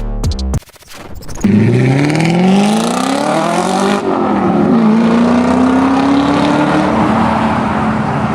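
A car engine accelerating hard, its revs climbing steadily. The revs drop at a gear change about four seconds in, then climb slowly again in the next gear.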